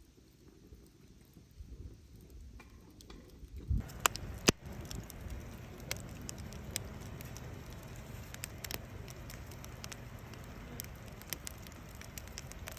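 Wood fire in a fire pit crackling: fairly quiet for the first few seconds, then a couple of loud pops about four seconds in, after which it crackles steadily with scattered sharp pops.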